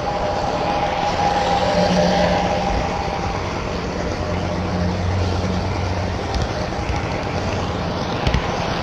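HO scale model trains running on the layout: a steady motor hum and wheel noise on the track, with a few faint clicks and one louder click near the end.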